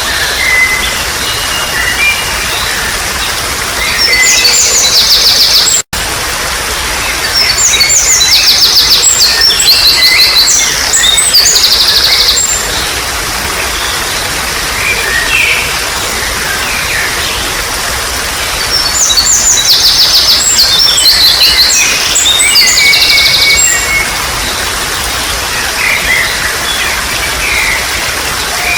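A small stream babbling steadily, with songbirds singing over it in three loud stretches of rapid, repeated high chirping notes. The sound drops out completely for an instant about six seconds in.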